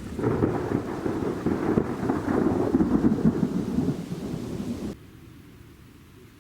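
Thunder rumbling loudly, with the hiss of rain beneath it; the rumble cuts off abruptly about five seconds in.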